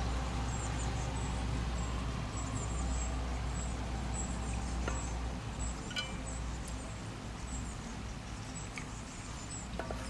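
Steady low background hum with faint, repeated high-pitched chirps of small birds and a few light clicks.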